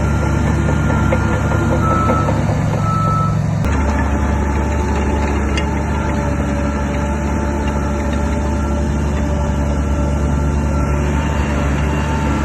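Diesel engine of heavy earthmoving machinery running steadily under work, with a reversing alarm beeping; the engine sound changes abruptly a little under four seconds in.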